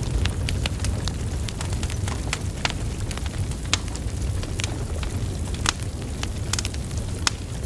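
Wood fire burning logs: a steady low rumble of flames with frequent sharp, irregular crackles and pops.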